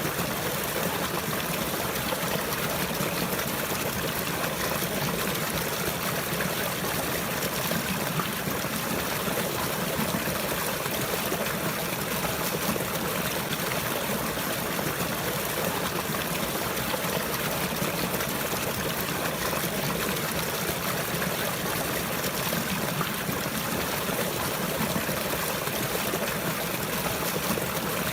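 Water flowing steadily, a continuous trickling stream with no change in level.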